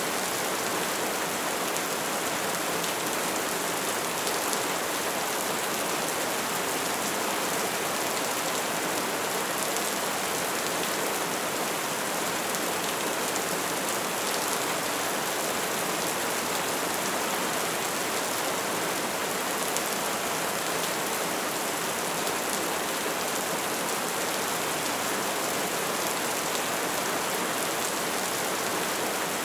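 Steady soft rain falling, an even hiss with fine drop patter spread high in pitch, unchanging throughout.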